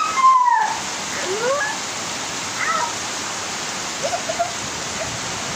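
Heavy rain pouring steadily onto roofs and walls, an even hiss, with a few brief pitched calls heard over it.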